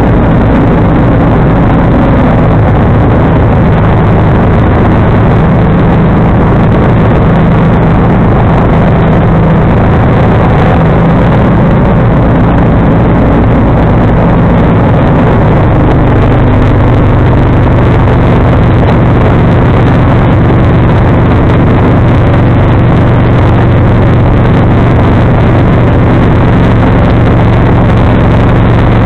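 John Deere 445 garden tractor's engine running steadily and loudly while it drives its 47-inch snowblower, its pitch shifting slightly about halfway through.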